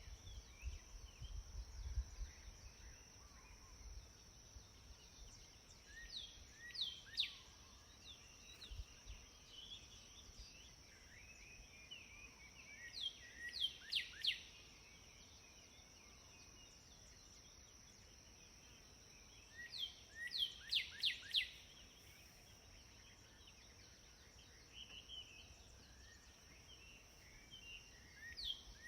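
Outdoor nature ambience: a songbird repeats a short phrase of quick, downward-sweeping whistled notes about every seven seconds, with softer chirps between. A steady high-pitched tone runs underneath, and there is some low rumble in the first few seconds.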